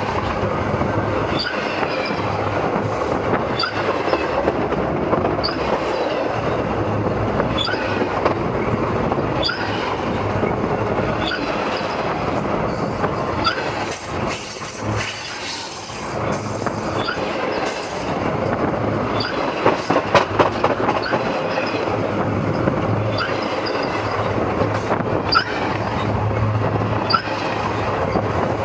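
Train cars rolling directly overhead, heard from between the rails: a loud, steady rumble of steel wheels on rail with short squeals recurring every second or two. The noise dips briefly about halfway through, and a run of rapid clacks comes about two-thirds of the way in.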